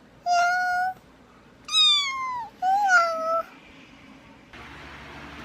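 Cat meowing three times: a steady call, a falling one, then one that rises and falls.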